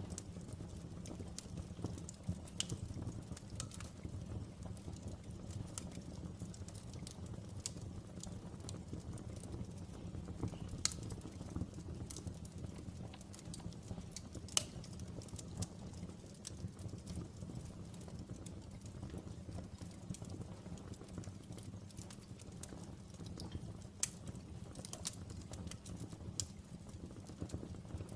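Open fire burning: a steady low rush of flames under frequent, irregular sharp crackles and pops, with a few louder snaps scattered through.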